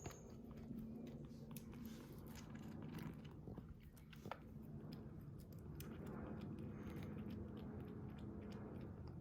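A kitten chewing: small, irregular clicks and crunches, faint, over a steady low hum.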